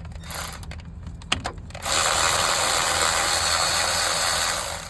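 Electric ratchet spinning out a loosened 14 mm water pump bolt, running steadily for about three seconds and then stopping. Before that come a few light clicks and taps as the socket is fitted onto the bolt.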